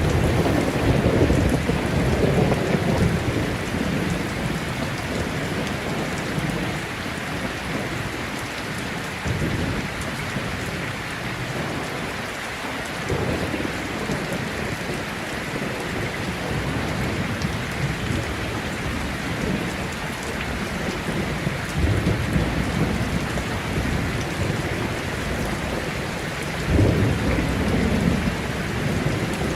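Heavy rain falling steadily, with thunder rumbling low in the background, swelling in the first few seconds and again near the end.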